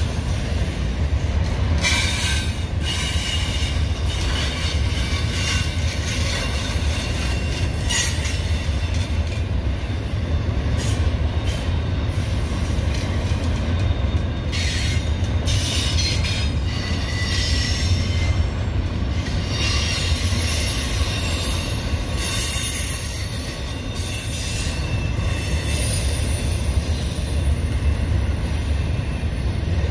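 Union Pacific intermodal train's double-stack well cars rolling past: a steady low rumble of wheels on rail, with high wheel squeal and whining tones coming and going.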